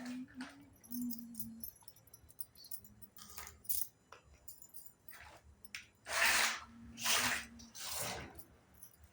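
Small pieces of a toy mini kitchen set clicking and clinking as they are handled and set down, with three louder swishing rustles about six to eight seconds in.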